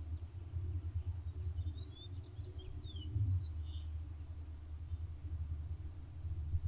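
Small birds chirping and twittering in short, scattered high calls, busiest around the middle, over a steady low rumble.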